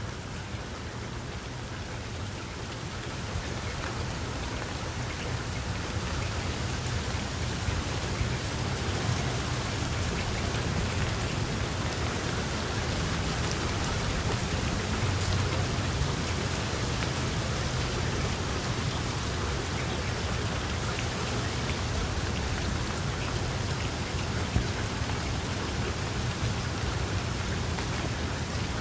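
Steady heavy rainfall with scattered drop ticks and a low rumble underneath, swelling over the first few seconds and then holding level.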